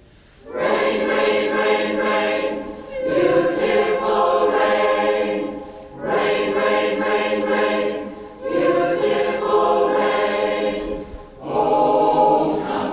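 Mixed community choir singing in several parts, in sung phrases of two to three seconds with short breaks between them.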